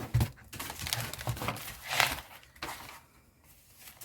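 Paper and packaging rustling and crinkling in a run of quick noisy bursts as craft materials are handled, the loudest about two seconds in, quieter near the end.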